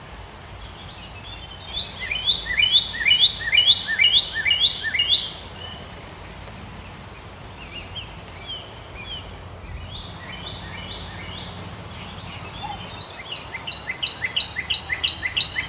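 A bird calling in runs of sharp, quickly repeated high notes, about two a second, over a steady background hiss. One loud run comes about two seconds in, a fainter one around the middle, and another loud run near the end.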